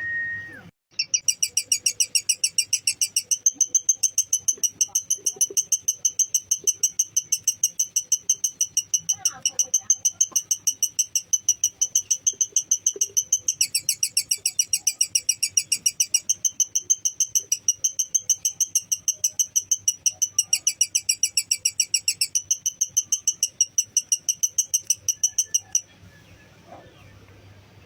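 Lovebird giving a long 'ngekek' chatter: a continuous run of rapid, shrill repeated notes, about four a second, kept up for some 25 seconds and stopping near the end.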